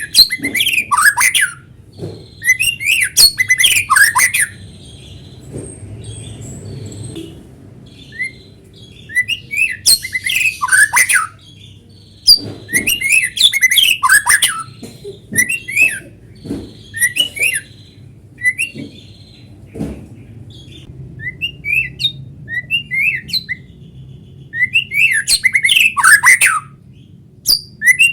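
White-rumped shama (murai batu) singing in full, vigorous song: bursts of rapid, sweeping high notes and chatters, each phrase a second or two long, with short pauses between phrases.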